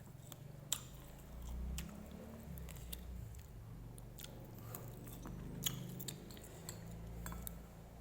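A person eating noodles: chewing, with scattered sharp clicks of a utensil against a bowl.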